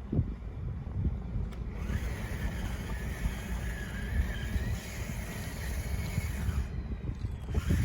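Electric drive motors and gears of a radio-controlled construction machine whining under load for a few seconds, the pitch wavering, over a steady low rumble with a few knocks.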